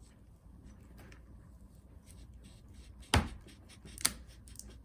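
Fishing line being drawn under a laptop battery cell to cut through its adhesive: a faint rasping with small ticks, then two sharp clicks about a second apart near the end, the first the louder.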